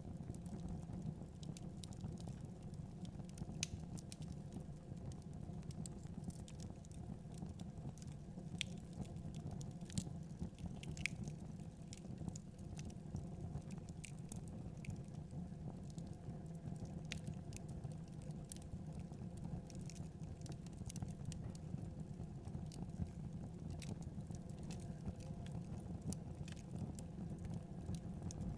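Wood fire crackling in a fireplace: many scattered, irregular sharp pops and snaps over a steady low rumble.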